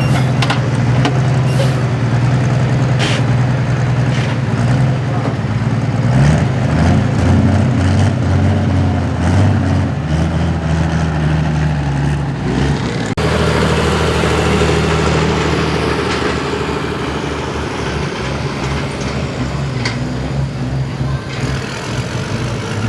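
Super stock diesel 4x4 pulling truck's turbocharged engine running hard and loud, its pitch shifting about a quarter of the way in, with an abrupt change in the sound a little past halfway.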